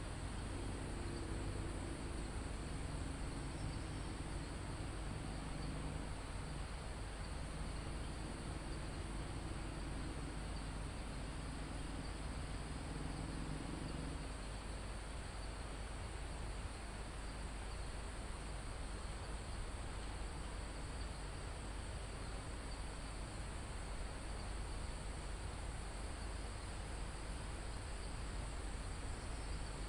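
Crickets and other insects trilling steadily in a forest, a continuous high-pitched chorus over a soft background hiss. A faint low hum underneath stops about halfway through.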